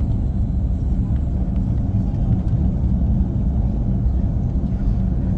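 Cabin noise of an Airbus A340-300 taxiing after landing: a steady low rumble of the engines and airframe heard from inside the passenger cabin.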